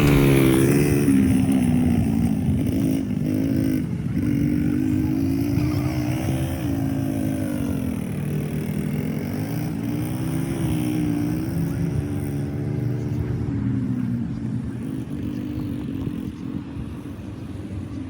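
Mini ATV's small engine running as it is ridden, its pitch rising and falling as the throttle opens and closes, fading somewhat near the end.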